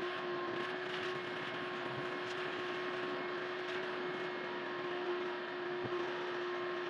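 A steady mechanical hum: one constant mid-pitched tone over a noisy drone.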